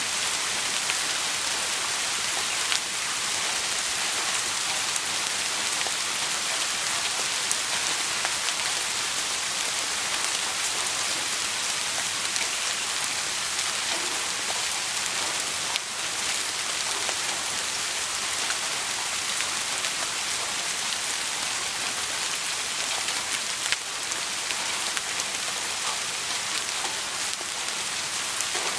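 Steady rain falling as an even hiss, with scattered faint ticks and a few brief louder clicks.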